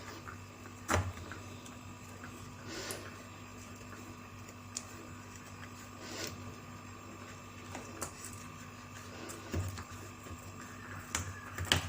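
Knife scoring a cooling slab of peanut brittle into squares on a plate: faint scrapes and taps, with a sharper knock about a second in and a few more scattered through, over a faint steady hum.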